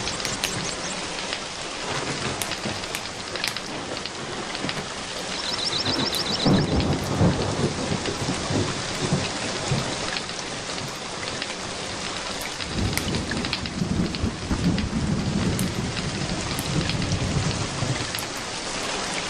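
Steady rain with thunder rumbling low underneath, swelling about six seconds in and again for several seconds in the latter half.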